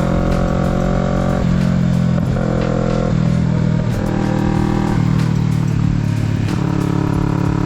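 Kawasaki Z650's parallel-twin engine running under way. Its pitch holds steady and then shifts up or down several times, with the throttle and gears changing.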